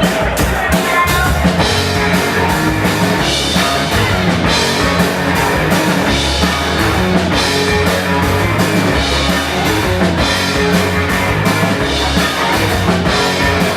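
Live rock band playing an instrumental passage with a drum kit keeping a steady beat under amplified string lines, with no singing.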